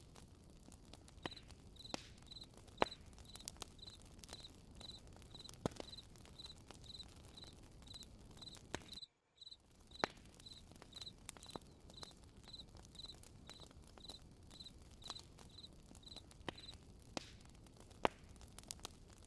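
Campfire crackling with scattered sharp pops over a faint hiss, while a cricket chirps steadily at about two chirps a second from about a second in until near the end. The sound cuts out completely for a moment about nine seconds in.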